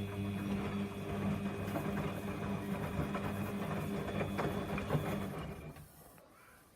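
Samsung washing machine's drum motor running as the drum turns a load of tea towels in a 95 °C Baby Care boil wash: a steady hum under a rough, clicking wash noise, which stops about six seconds in as the drum pauses between turns.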